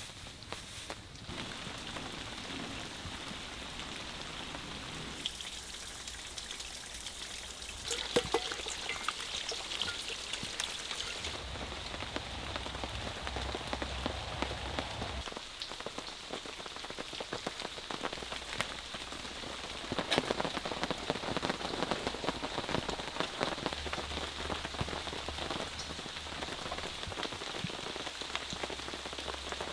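Rain falling and pattering on a surface: a dense, steady patter of drops with scattered louder ones, changing abruptly in level and tone several times.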